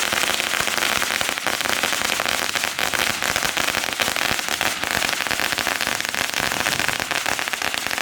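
Fireworks crackling: a dense, unbroken rattle of many small pops.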